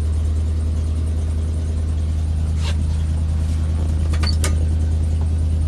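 1988 Chevy R30's 350 V8 running at a steady fast idle after a cold start, not yet idled down. A few short clicks about two and a half and four seconds in.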